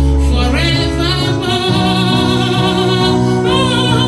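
Gospel worship song: a singer holds a long note with vibrato over steady instrumental backing.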